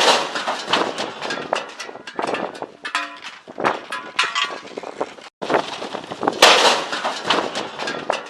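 A heavy metal barbecue blown over in high wind, crashing to the ground with a loud clang and a run of metal clattering and rattling. A brief break about five seconds in, then another loud crash and clatter.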